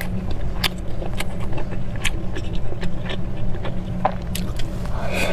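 Close-miked eating: chewing with frequent short wet mouth clicks, over a steady low hum.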